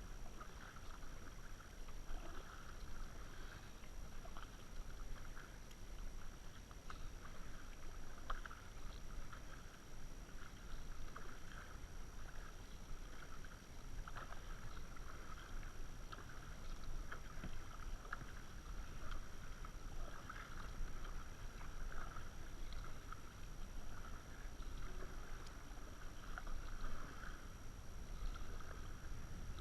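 Kayak paddling: water swishing and splashing with the paddle strokes in irregular swells about every second, over a low rumble.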